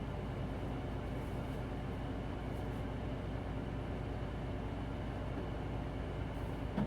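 Hino Blue Ribbon City Hybrid bus heard from inside the cabin while under way: a steady rumble of engine and road noise, with a short low thump at the very end.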